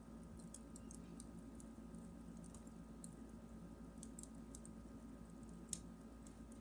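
Campfire crackling quietly: scattered small snaps and pops over a steady low hiss, with one sharper pop a little before the end.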